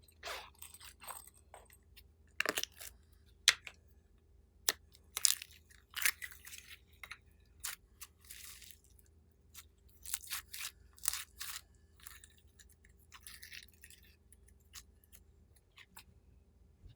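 Slime being mixed and squished by hand: irregular sticky clicks, pops and short crackles, a few of them sharp.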